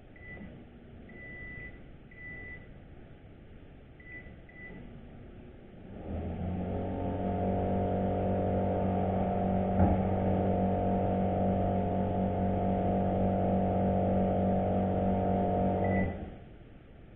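Microwave oven keypad beeping a few times. About six seconds in, the oven starts with a loud, steady electrical hum from its high-voltage transformer and fan, run with the magnetron disconnected. The hum is a more normal, stable noise, pointing away from the transformer and toward the magnetron as the noisy part. It stops suddenly about ten seconds later with a short beep.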